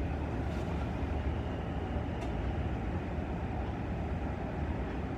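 Passenger train running, heard from on board: a steady low rumble with a couple of faint clicks.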